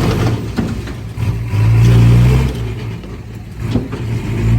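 Heavy diesel earthmoving machinery engine working under load, surging to its loudest about one and a half seconds in, then easing back.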